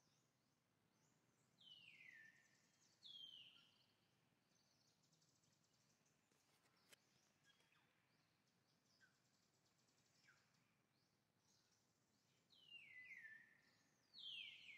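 Faint bird calls: two pairs of short descending whistles, one pair about two seconds in and another near the end, over a soft steady outdoor hiss, with a single faint click midway.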